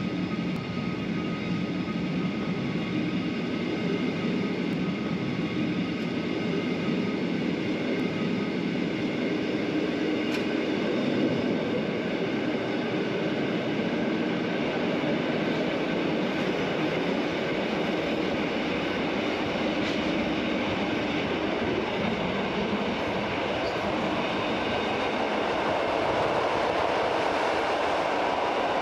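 Rhaetian Railway metre-gauge train running along the line behind an electric locomotive, a steady rumble of wheels on rails that grows slightly louder near the end.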